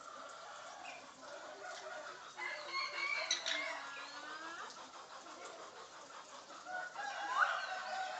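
Chicken-like clucking and crowing calls in two bouts: one about two seconds in and another near the end, the second with a quick rising note.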